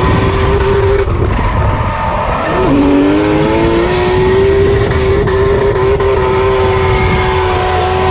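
Drift car's engine held at high revs, with a brief drop in pitch about two and a half seconds in before it climbs back and holds steady.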